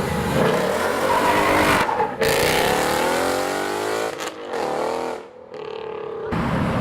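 A sports car's engine accelerating hard, its pitch climbing in repeated runs broken by gear changes about two and four seconds in, then falling away.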